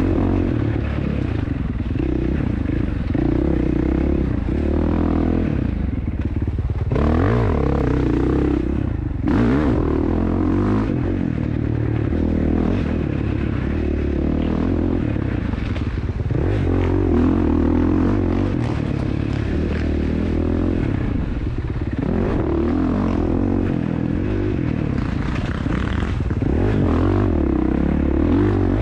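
Dirt bike engine ridden hard, its pitch rising and falling again and again as it revs and shifts, with clattering and scraping from the bike over rough ground.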